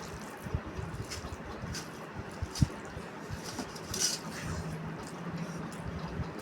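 Eating at a plate of rice and potato curry: small soft clicks and knocks against the plate, with one sharper click about two and a half seconds in.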